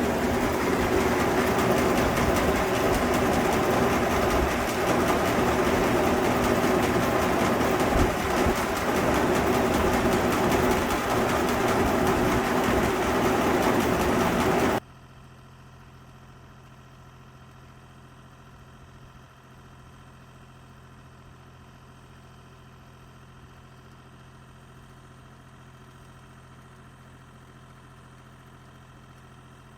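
Spent-grain auger running, a loud, steady mechanical noise carrying brewery spent grain from the mash to a trailer. It cuts off abruptly about halfway through, leaving a faint steady hum.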